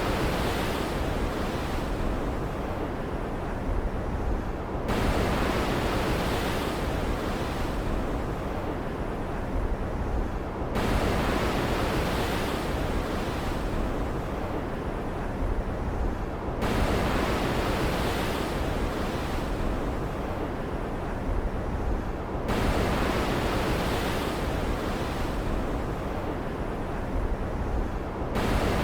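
Stormy ocean ambience: a steady wash of surf and wind, with a new swell surging in about every six seconds over a constant low rumble.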